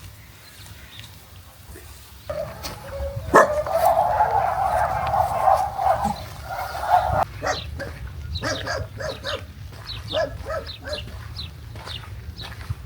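Dogs barking and yapping, with a quick run of short barks in the second half.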